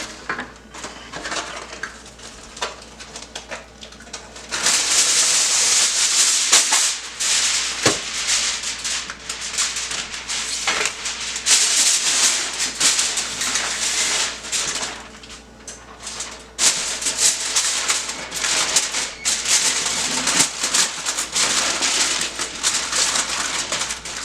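Aluminium foil crinkling and rustling as it is folded and wrapped by hand, a dense crackle of small sharp ticks. It is quieter for the first few seconds, then loud, with a short lull about two-thirds of the way through.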